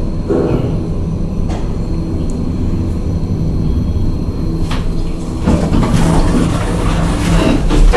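KONE MiniSpace traction elevator running: a steady low hum with a couple of sharp clicks, then a louder rushing noise over the last couple of seconds.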